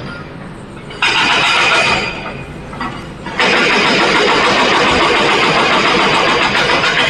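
Heavy diesel machinery engine, loud and noisy, surging for about a second just after the start, easing off, then rising again a little over three seconds in and holding loud.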